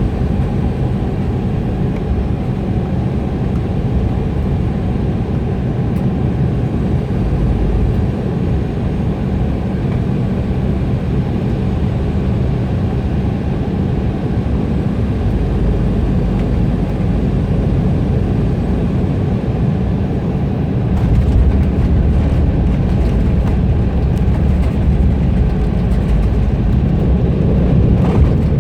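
Embraer E175 cabin noise heard from a window seat: the steady rush of the jet engines and airflow. About two-thirds of the way through, a deeper rumble with rattling sets in and grows a little louder near the end.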